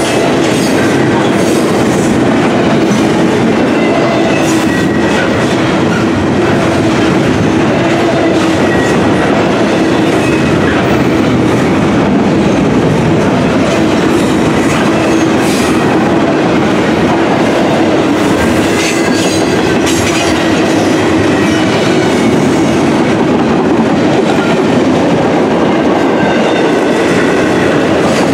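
Double-stack intermodal container freight cars rolling past: a loud, steady rumble and clatter of steel wheels on rail, with scattered sharp clicks and knocks from the wheels.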